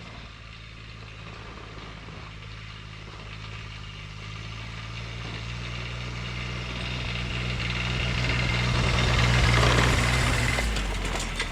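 Small diesel engine of a diesel-swapped Power Wheels ride-on held at full throttle, running at a steady speed as it labours up a steep hill. It grows steadily louder to a peak about nine or ten seconds in, then eases off slightly. The struggle is a sign of too little low-end gearing, which the owner takes to need a bigger rear gear.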